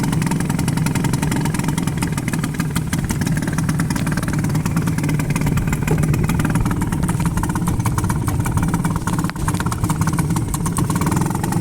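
1984 Mariner 4 hp two-stroke outboard motor running steadily under throttle, a rapid, even firing note with no pauses.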